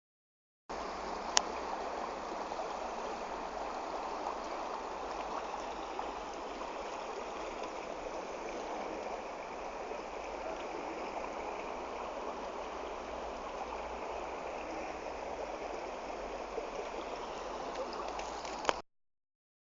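Floodwater running, a steady wash of flowing water, with a sharp click about a second in and a louder click near the end.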